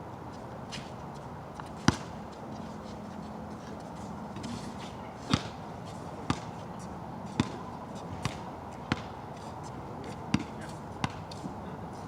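A basketball bouncing on a wet outdoor court: about nine sharp bounces at uneven intervals, coming closer together in the second half. Under them is a steady hiss of rain.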